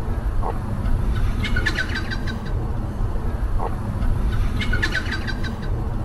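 Wild birds calling in eucalyptus bush: a short low note about every three seconds, and two bursts of quick high chirps in between, over a steady low rumble.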